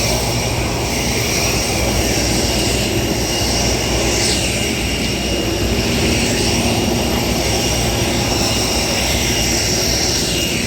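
Airplane engines running: a loud, steady drone with constant tones, no change in level.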